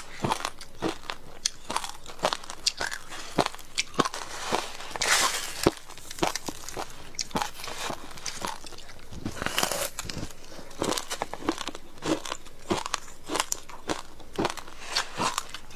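Close-miked chewing of frozen passion fruit ice, a fast irregular run of sharp cracks and crunches with a few denser bursts of crunching.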